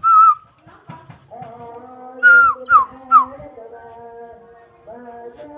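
A jalak starling's clear whistled call: a short whistle at the start, then three quick falling whistles about two seconds in, over a steady hum.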